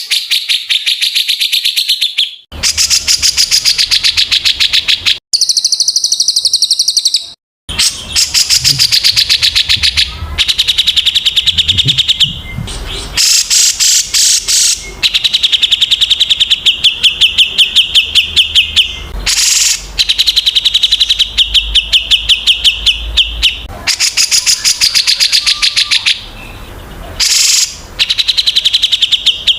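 A songbird singing fast, repeated chirping phrases, loud and close, the kind of bird-song recording (masteran) played to caged songbirds to teach them. The phrases run a few seconds each and break off abruptly between them.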